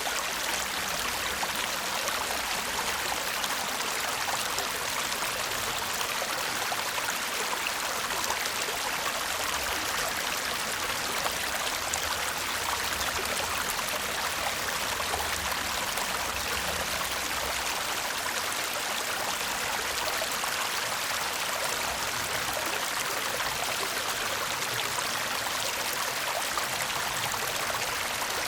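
Shallow stream babbling and murmuring steadily over stones, an even rush of water with fine trickling detail.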